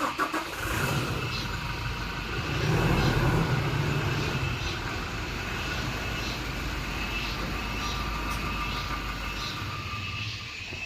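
A motor vehicle running on the road, with steady engine and road rumble that swells a little about three seconds in.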